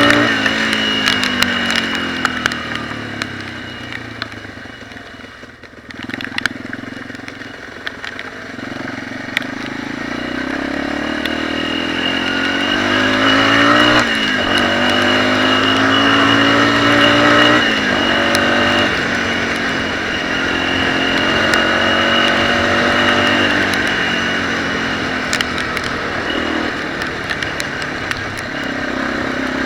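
Off-road motorcycle engine revving on a trail ride. Its pitch falls and fades in the first few seconds, then climbs again, with sudden drops in pitch about fourteen and seventeen seconds in.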